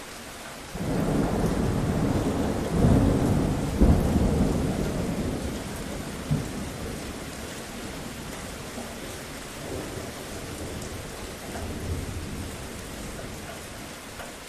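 Steady rain with a thunderclap that breaks in suddenly about a second in, rumbles loudest around three to four seconds, then slowly dies away; fainter rumbles come back twice near the end.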